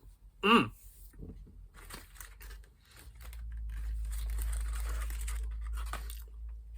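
A short vocal sound falling in pitch, then about three seconds of rustling and crinkling with a low rumble underneath.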